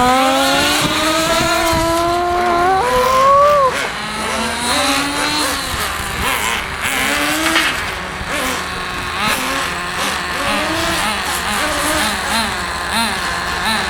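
Small nitro engine of a radio-controlled truck running at high revs, its pitch climbing steadily for about three seconds before dropping back. It then revs up and down in quick repeated swoops as the truck is driven around the track.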